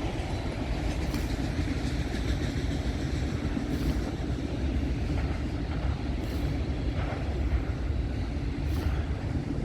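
Norfolk Southern freight train rolling past: a steady low rumble of cars on the rails, with a faint clack from the wheels every couple of seconds.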